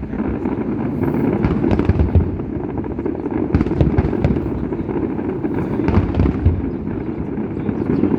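Aerial fireworks going off in a continuous barrage: a steady mass of low booms with many sharp cracks overlapping throughout.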